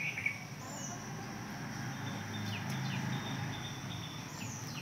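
Outdoor ambience of small birds chirping, with short sweeping calls scattered through, over a faint steady insect trill and a low steady hum.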